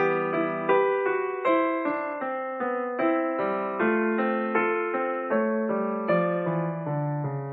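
Background piano music: a gentle melody of evenly paced notes, each struck and then fading.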